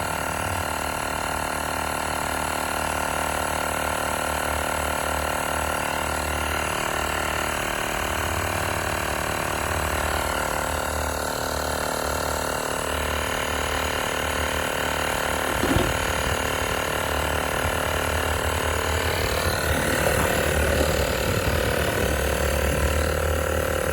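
Tower Top cordless tire inflator's piston compressor running steadily as it pumps up a truck tire against rising pressure, the pump running hot; one short click about 16 seconds in.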